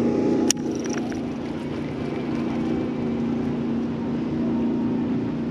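Boat's outboard motor running steadily with an even hum, and a single sharp click about half a second in.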